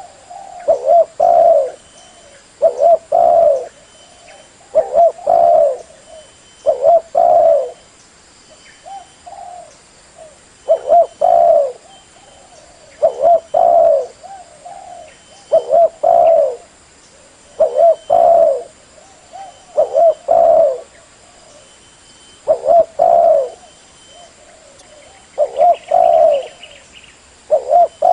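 Spotted dove (tekukur) cooing: a phrase of a few short coos repeated about every two to two and a half seconds, about a dozen times.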